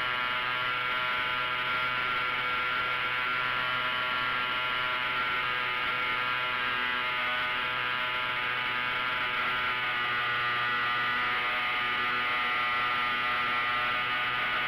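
Hangar 9 Taylorcraft 1/4-scale RC model airplane's motor and propeller running at steady power in flight: an even, buzzing drone with many overtones. It is picked up close by a camera mounted on the outside of the plane, above the wing.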